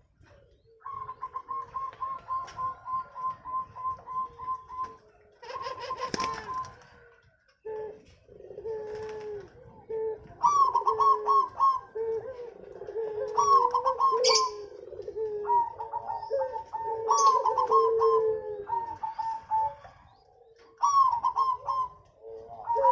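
Zebra doves (perkutut) cooing: a quick run of repeated notes, then a string of rolling, bending coo phrases, several overlapping at different pitches. A short rustling burst about six seconds in.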